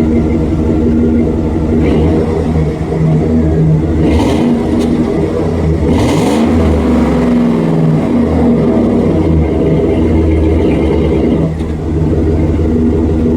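Chevy Express van's V8 engine running with a loud exhaust note, its pitch briefly dipping and rising near the middle as it is revved.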